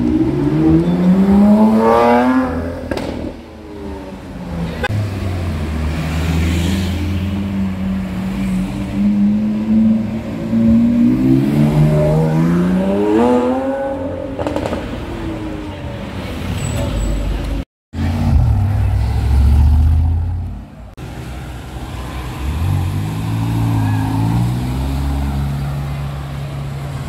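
Supercar engines accelerating along a city street in several separate passes. A Lamborghini Aventador SVJ Roadster's V12 climbs in pitch as it pulls away at the start. Another car's engine climbs again around the middle, and a Ferrari California's engine runs low and then rises near the end, with a sudden break between passes.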